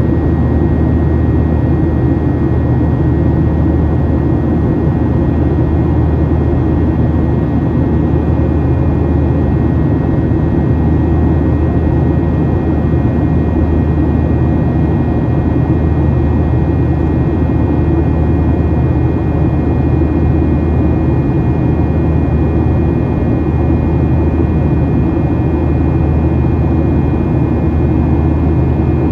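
Steady jet cabin roar inside a Boeing 737-800 during the climb after takeoff: the engines at climb power and the rush of air over the fuselage, with a few faint steady whine tones above the drone.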